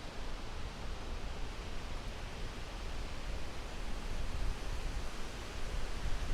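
Wind rustling the leaves of an old ivy-covered tree: a steady hiss with a low rumble that rises and falls in gusts.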